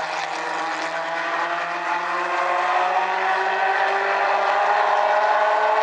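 A pack of mini stock race cars' engines running together under hard acceleration, their pitch slowly rising as the field gets up to speed.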